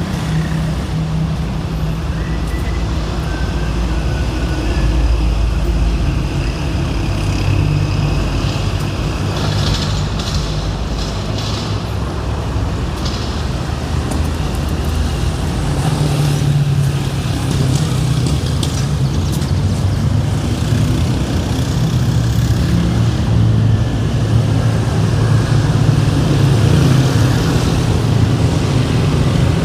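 City street traffic: a steady rumble of car, bus and truck engines idling and passing, with a few brief high squeaks and clatters about a third of the way in.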